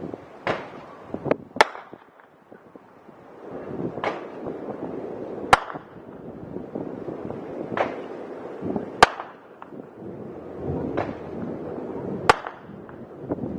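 Fireworks shells bursting in the air: about nine sharp bangs, irregularly spaced every second or two, over a continuous low rumble.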